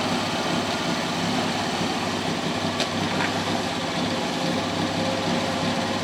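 The Triumph Herald's four-cylinder engine idling steadily under the open bonnet, with a couple of faint clicks about three seconds in.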